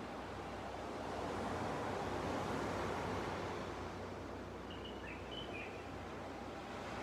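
Small sea waves washing onto a beach, the surf swelling about a second and a half in and easing again. A bird chirps briefly about five seconds in.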